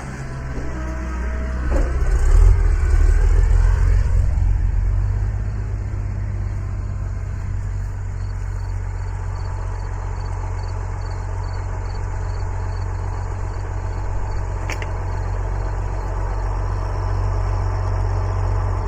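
Farm tractor engine running, revving up and getting louder about two to four seconds in, then settling into a steady run.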